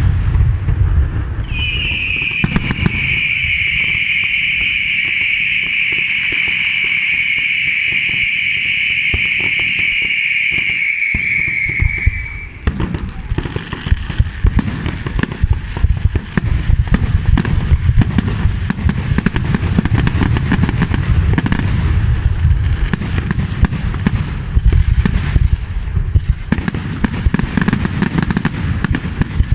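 Aerial fireworks display: a steady shrill whistle holds for about ten seconds and cuts off suddenly. Then comes a rapid, continuous run of crackling and booming shell bursts.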